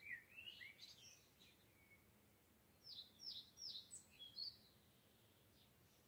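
Faint songbird singing in high, slurred whistles: a quick warbled phrase at the start, then a run of four down-slurred notes about three seconds in, followed by a shorter note or two.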